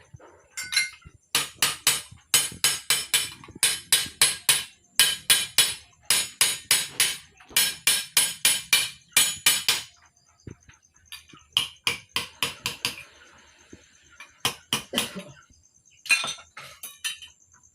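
Hammer striking sheet metal for a motorcycle exhaust, in quick runs of ringing metallic blows at about four a second, with short pauses between the runs.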